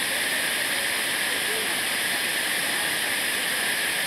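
Waterfall rushing: a steady, even hiss that does not change, with faint distant voices underneath.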